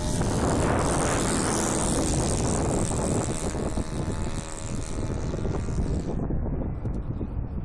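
Radio-controlled scale Cessna 177 Cardinal model plane's engine and propeller running as it flies past. The high part of the engine sound drops away suddenly about six seconds in, leaving wind noise on the microphone.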